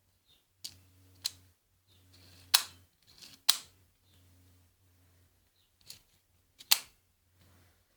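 Airsoft Beretta M9 replica pistol being worked and fired: a handful of sharp mechanical clacks and snaps at irregular intervals, three of them much louder than the rest.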